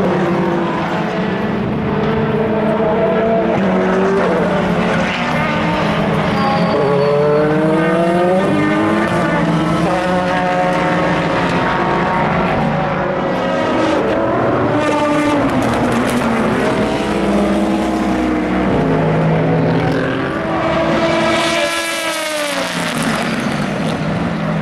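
Several endurance race cars running on the circuit, their engine notes rising and falling through gear changes and overlapping one another. A loud car sweeps past near the end, its pitch dropping as it goes by.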